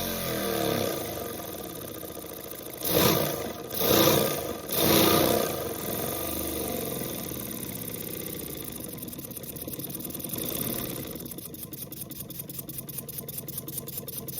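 Lego pneumatic flat-2 engine running on compressed air, with three loud bursts a few seconds in. Near the end it settles into a fast, even beat of about eight strokes a second.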